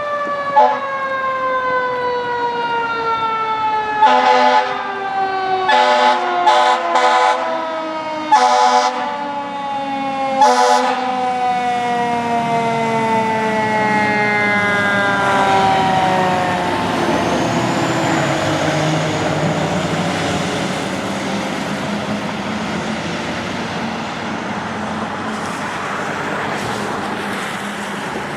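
2019 Pierce Enforcer fire engine responding: its siren wail falls slowly in pitch, with about five short air horn blasts in the first ten seconds or so. The siren fades out after about sixteen seconds and the truck's engine and tyre noise carry on.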